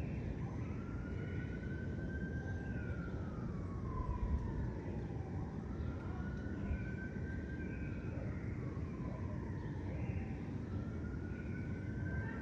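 Distant emergency-vehicle siren wailing, its pitch slowly rising and falling about every four seconds, over a steady low rumble of city traffic.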